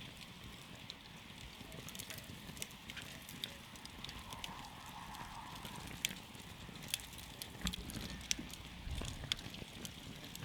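Wood campfire crackling: irregular sharp pops and snaps over a low steady rumble of the flames.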